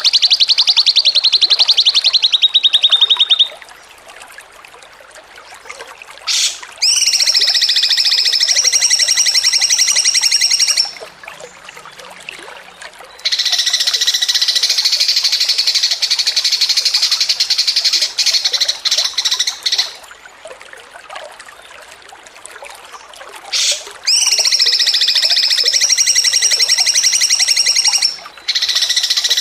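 A songbird's fast, buzzing trill, sung in repeated phrases of about four to seven seconds with short pauses between; some phrases open with a quick upward sweep.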